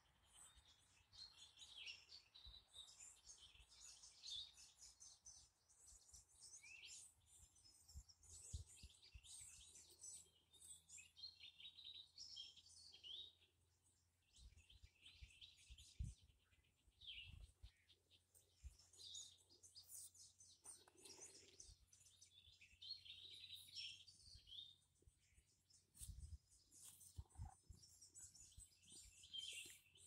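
Several small birds chirping and singing faintly in the trees, in short repeated calls and trills with brief lulls. A few low thumps break in, the loudest about halfway through.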